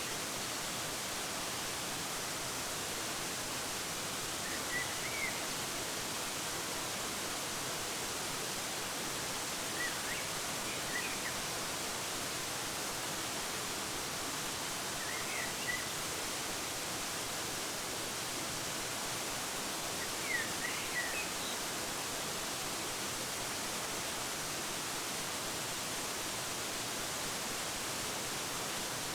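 Steady rushing of a waterfall, with small groups of short, high bird chirps every five seconds or so through the first two-thirds.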